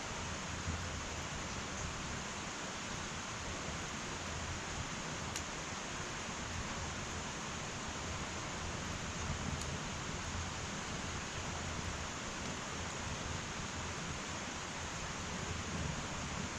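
Firewood burning in an irori sunken hearth: a steady hiss with a couple of faint sharp crackles, about five and ten seconds in.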